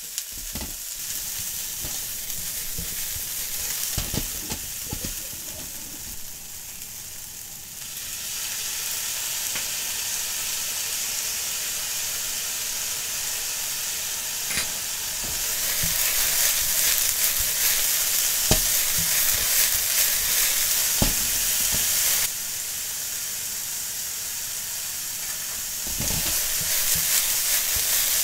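Bean sprouts and chikuwa sizzling as they stir-fry in a hot frying pan, the sizzle growing louder about halfway through. A spatula knocks against the pan a few times as the food is tossed.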